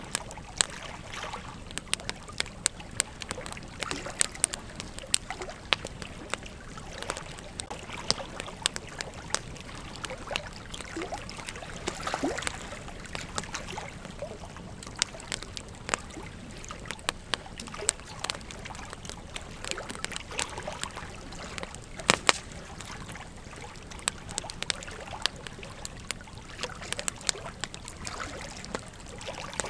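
Campfire crackling: irregular sharp pops and snaps over a steady hiss of burning wood, with a louder double pop about two-thirds of the way through.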